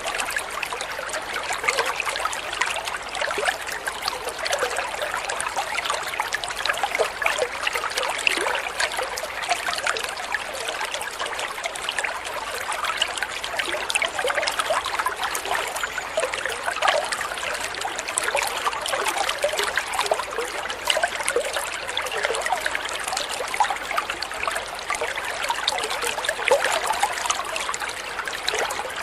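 Running water trickling steadily, a continuous light splashing made of many small drips and splashes with no deep rumble.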